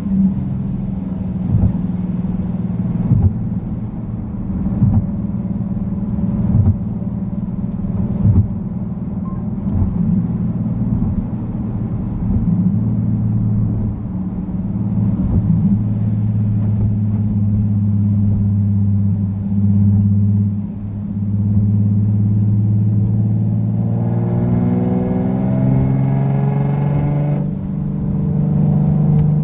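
Nissan Fairlady Z (Z34) 3.7-litre VQ37VHR V6 running steadily while driving. About 24 seconds in, its note climbs in pitch under acceleration, then drops back.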